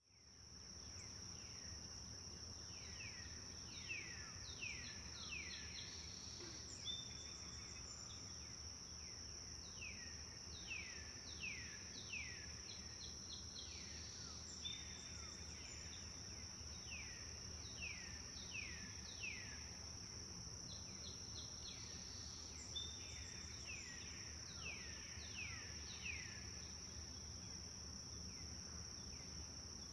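Birds singing in repeated phrases of quick downward-sliding notes, several in a row, over a steady high-pitched insect drone and a low background rumble.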